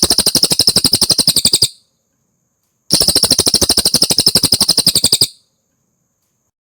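Cililin song: two rapid trills of sharp, evenly repeated notes, about ten a second. The first trill stops before two seconds in, and the second starts about three seconds in and runs for over two seconds.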